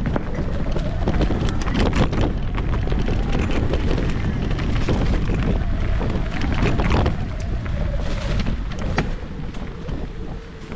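Wind buffeting the action camera's microphone while a mountain bike rolls fast over a rough trail, with frequent sharp clattering knocks from the bike and tyres hitting roots and rocks.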